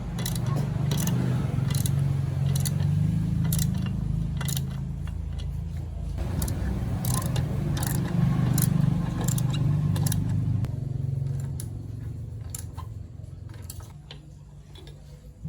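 A small engine running, with repeated sharp clicks over it; it quietens about two-thirds of the way through.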